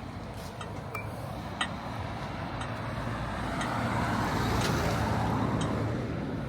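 A car passing on the street, its engine and tyre noise building to a peak about four to five seconds in and then fading.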